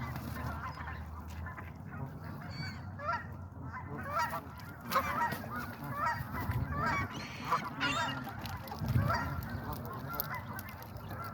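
Geese honking: many short, overlapping calls that come thickest and loudest in the middle stretch.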